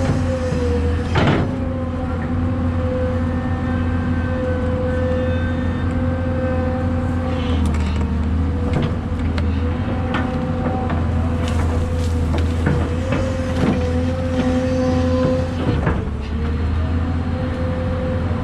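Kobelco SK250LC excavator's diesel engine running steadily, its hum shifting a little about a third of the way in and again near the end, with scattered knocks and clanks from the machine at work.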